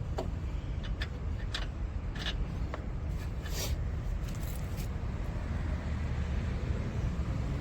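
Scattered light clicks and metal scrapes as an oxygen sensor is worked by gloved hand into its threaded port on the exhaust, over a steady low rumble.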